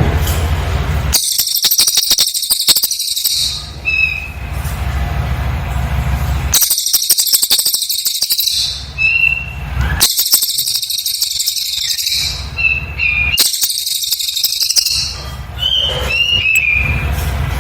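Cililin bird singing in dense, rapid high-pitched bursts of two to three seconds, four times, with regular short pauses. Brief clear whistled notes fall in the pauses, and a steady low hum sits under the gaps.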